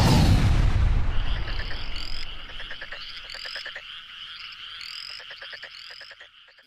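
A deep boom that dies away over about two seconds, followed by frog calls: rapid trilled pulses with a rising chirp about every second and a half, cutting off suddenly.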